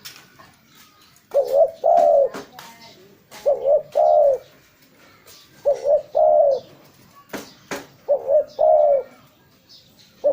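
Spotted dove (tekukur) cooing: a repeated phrase of a short coo followed by a longer coo that drops at the end, given four times about every two seconds. A few sharp clicks fall between the phrases.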